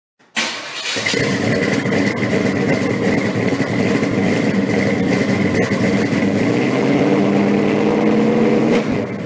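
Car engine starting with a sudden loud burst, then running steadily.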